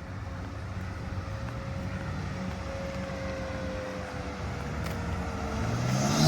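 BMW G80 M3's twin-turbo straight-six running under load while the car is spun, steadily growing louder and swelling near the end.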